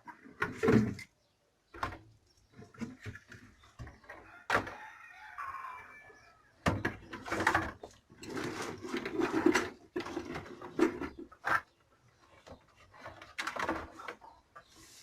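Knocks, clatter and scraping of things being moved about during clearing out a storage room, with a bird calling briefly about five seconds in.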